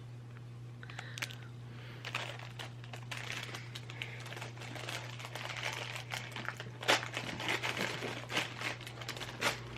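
Packaging crinkling and rustling in the hands as a small wrapped gift is unwrapped, with a few sharper clicks near the end. A steady low hum runs underneath.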